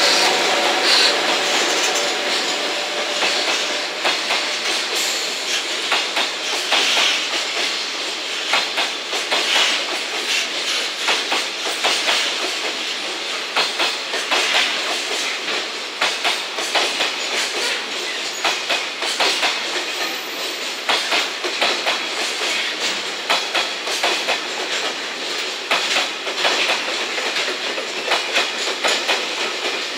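Container flat wagons of a freight train rolling past close by, wheels clacking again and again over the rail joints above a steady rumble of the running gear.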